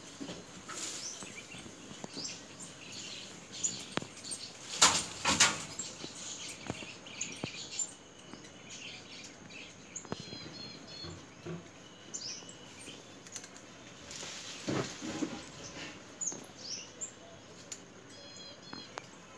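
Small birds chirping in the surrounding trees: scattered short high calls and quick runs of notes. A louder burst of noise cuts in twice about five seconds in, and again briefly near fifteen seconds.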